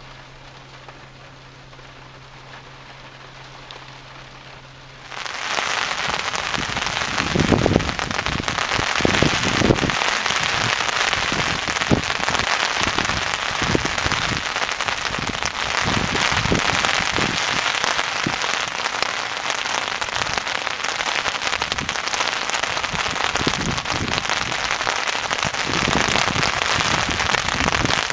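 Heavy rain pouring down and splashing on hard surfaces, starting abruptly about five seconds in after a faint steady hum, with louder individual drops and splashes standing out now and then.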